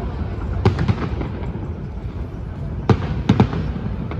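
Fireworks going off: a quick cluster of sharp bangs just under a second in, then another group of three bangs around three seconds in, over a steady low rumble.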